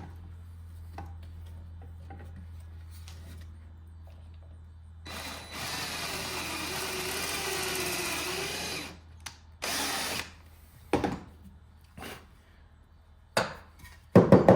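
Power drill running a pocket-hole bit into wood through a pocket-hole jig, for about three seconds with its motor pitch wavering under load, then a short second burst. A few sharp knocks follow near the end.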